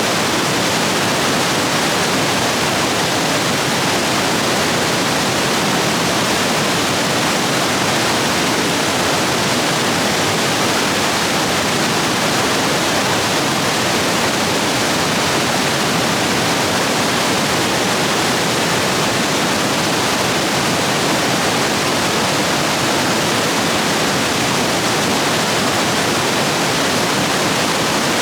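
Rain-swollen rapids rushing over rocks in a steady, full roar of white water.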